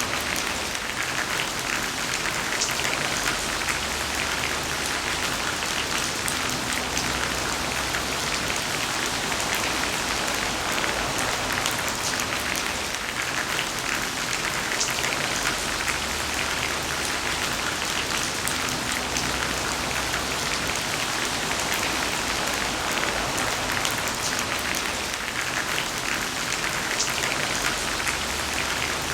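Heavy rain falling steadily: a dense, even hiss of drops, with individual drop hits flicking through it.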